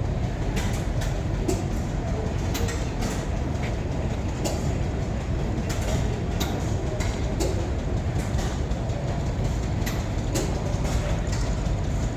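A heavy machine running with a steady low rumble, with irregular sharp clicks and clanks over it.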